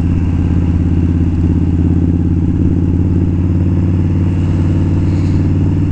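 Indian Scout's V-twin engine running at a steady cruise, its pitch holding nearly level.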